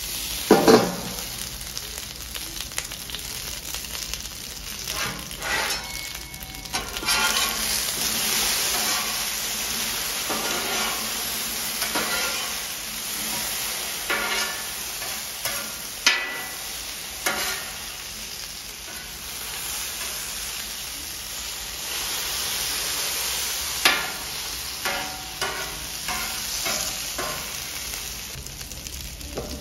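Cubed potatoes sizzling in oil on a hot steel flat-top griddle while a metal spatula scrapes across the steel and turns them, in many short scrapes and clicks. A metal clank about a second in as the steel bowl used as a cover is lifted off and set down.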